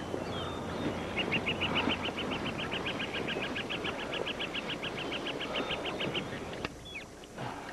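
A bird trilling a long, even run of high notes, about six a second, for some five seconds, over the steady rustle of a bicycle riding through dry grass. A sharp click comes near the end, where the noise drops.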